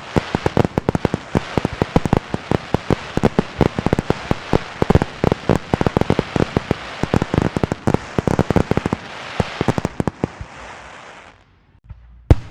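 A rapid, dense string of firecracker pops, many a second, for about ten seconds, thinning out and dying away. After a short pause a single sharp bang comes near the end.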